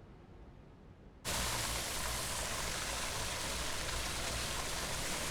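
Near silence, then a little over a second in a steady, even rushing hiss cuts in suddenly and continues, like running water.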